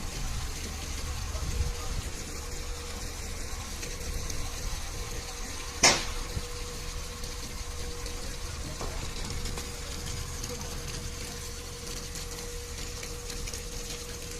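Isuzu Giga fire truck's engine running steadily with a constant hum, with one sharp click about six seconds in.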